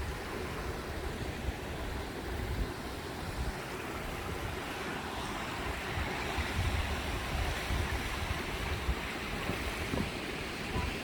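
Steady rush of water from a small hot-spring waterfall, with gusts of wind rumbling on the microphone.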